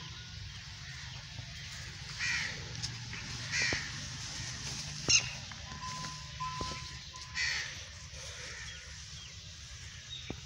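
A bird cawing three times, short harsh calls about two seconds in, near four seconds and past seven seconds, with a sharp click a little after five seconds.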